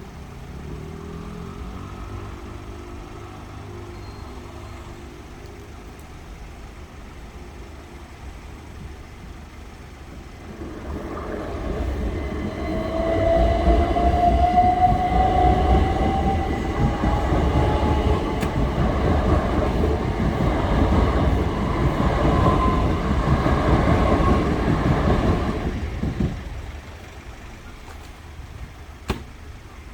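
Class 377 electric multiple unit train passing on the railway, with a rising motor whine as it picks up speed. The rumble builds about a third of the way in, holds for roughly fifteen seconds, and fades off near the end.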